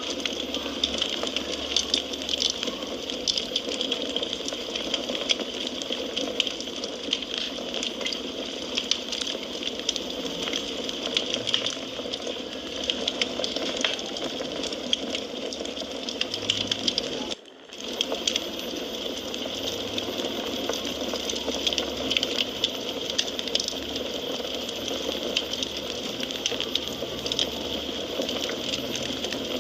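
Wood fire crackling steadily, with a dense scatter of small pops and snaps over a constant hiss. A momentary dropout a little past halfway.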